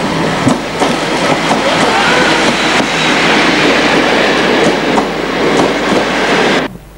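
Diesel-hauled passenger train passing close alongside the platform: a loud, steady rumble of rolling coaches with scattered wheel clacks over the rail joints. It cuts off suddenly near the end.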